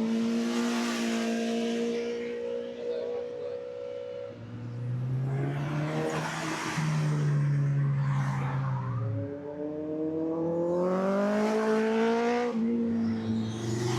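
Car engines running hard. The engine note holds, then falls, then climbs steadily as a car accelerates, before dropping sharply about twelve seconds in, like a gear change.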